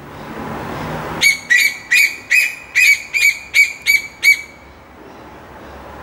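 A bird calling loudly: a run of about ten short, arching notes, roughly three a second, lasting about three seconds and then stopping.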